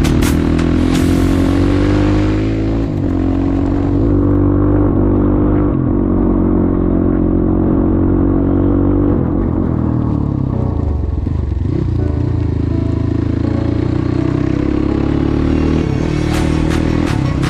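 Motorcycle engine running under way, its pitch rising and falling with the throttle, with sharp clicks and clatter near the end.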